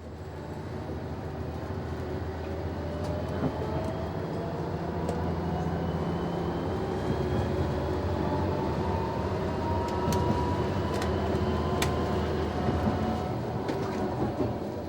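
Noto Railway NT100 diesel railcar picking up speed: engine and drive growing louder, with a slowly rising whine. A few sharp clicks come in the second half.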